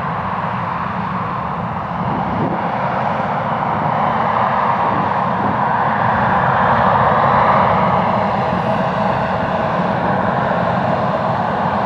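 Airliner engines running loud, a steady roar that grows about two seconds in, peaks around seven to eight seconds in, then eases a little.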